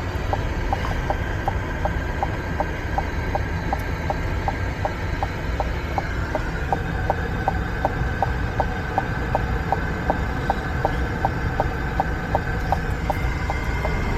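Steady low engine rumble inside a truck cab, with a vehicle's indicator flasher ticking evenly, about three ticks a second.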